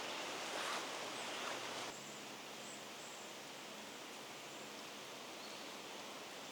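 Quiet forest ambience: a steady, even hiss of outdoor background noise, with a little rustling in the first two seconds. The background drops slightly about two seconds in and stays steady after that.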